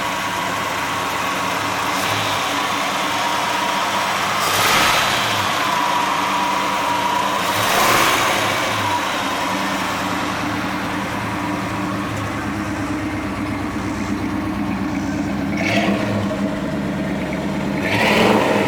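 Chevrolet 350 small-block V8 idling steadily, revved briefly four times.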